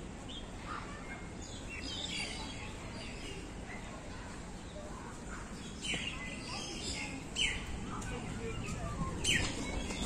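Birds chirping in short, sharp calls a few seconds apart, over steady outdoor background noise and faint distant voices.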